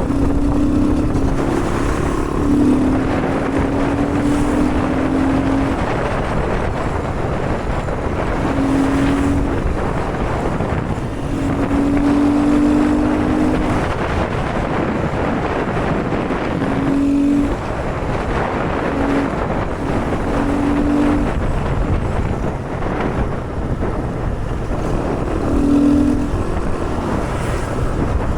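Wind rushing over the microphone while riding a Honda Grom, with the mini bike's single-cylinder engine humming through in several stretches.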